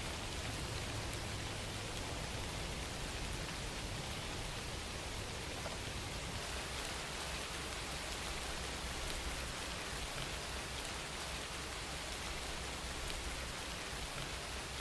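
Steady rain falling, an even hiss with faint pattering drops.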